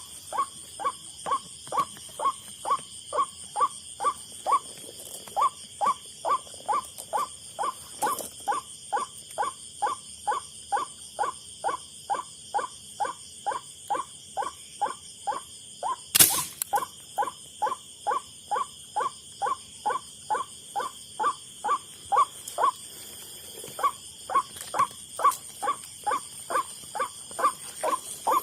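White-breasted waterhen's 'kuak-kuak' call repeated on and on, short notes about two and a half a second, broken by two brief pauses. It is most likely the lure call played over a speaker. A single sharp bang comes about halfway through, over a steady high whine.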